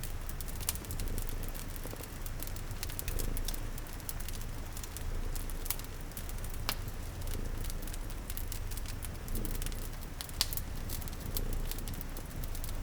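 Layered sleep ambience: a cat purring in a low, steady rumble, a wood fire crackling with scattered sharp pops, and rain hissing softly.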